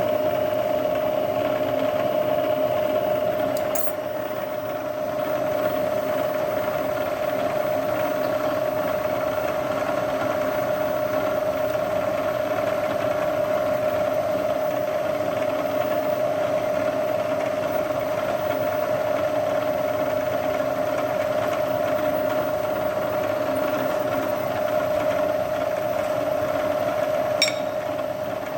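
Machine-tool spindle running steadily with an even, high whine and a light mechanical clatter. There is a sharp click about four seconds in and another near the end.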